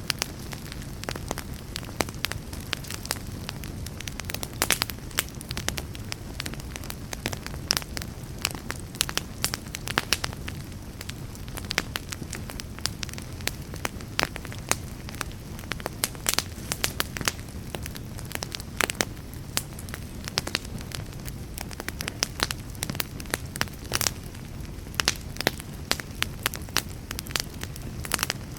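A burning wood fire crackling: frequent irregular sharp pops and snaps over a steady low rumble of flame.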